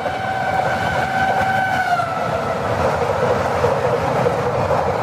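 Express train's locomotive horn held as the train approaches at speed, its pitch dropping about two seconds in as the locomotive passes. Then the loud, steady rush and rattle of the coaches going by at speed.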